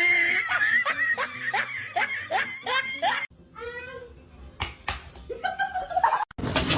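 A person laughing in a quick run of short repeated pulses, about three a second, for roughly three seconds, then cut off abruptly; a short wavering call and a few clicks follow in a quieter stretch.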